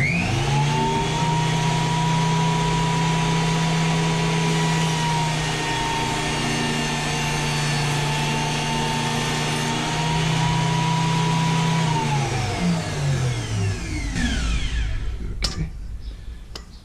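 WEN JT833H 8-inch jointer switched on: the motor and spiral cutterhead wind up to speed with a rising whine, run steadily for about twelve seconds, then are switched off and coast down with a falling whine, with a click near the end.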